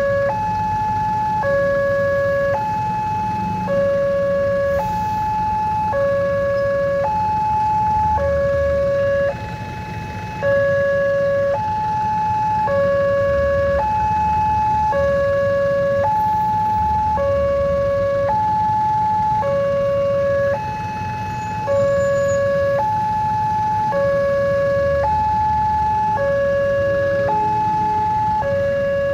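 Railway level-crossing warning alarm sounding a repeating two-tone electronic signal, a lower and a higher note alternating about once a second: the warning that a train is approaching the crossing. A low rumble of road traffic runs underneath.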